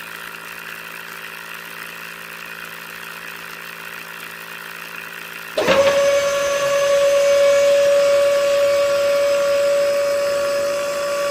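A steady machine hum, then about five and a half seconds in a louder motor starts up with a sudden jump and runs on with a steady high whine.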